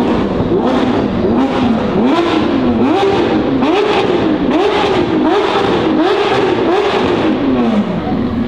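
A high-performance car engine being revved repeatedly in quick blips, about once a second. Each rev climbs and drops back, and near the end the revs fall away toward idle.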